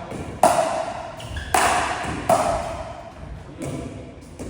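Pickleball paddles striking a plastic pickleball back and forth in a dink and volley exchange. There are about five sharp pops with a short hollow ring, spaced roughly a second apart.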